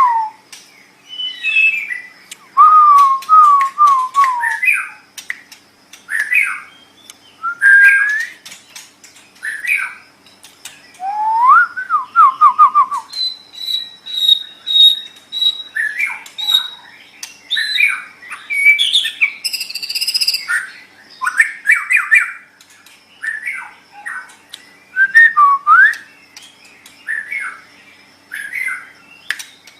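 White-rumped shama (murai batu) singing: a varied run of loud whistled phrases, with quick descending note runs, upward sweeps and rapid repeated notes, separated by brief pauses. The bird never stops for long.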